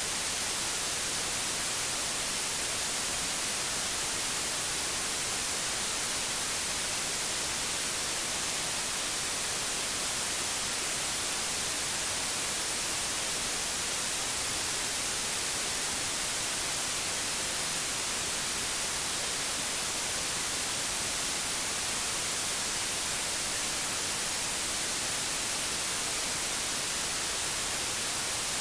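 Steady white noise: an even, unbroken hiss, strongest in the high end.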